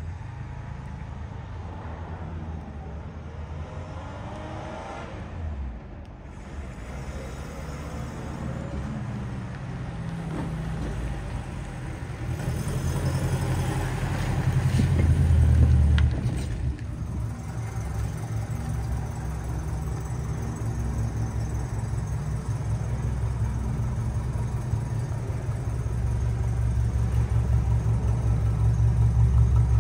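Saab 96's Ford V4 engine running, its note climbing to a loud peak about halfway through, dropping off sharply, then building up again toward the end.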